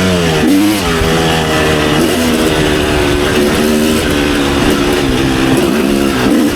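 Kawasaki KX250 dirt bike engine revving hard on a trail ride, its pitch climbing and falling several times as the throttle is worked and gears are changed.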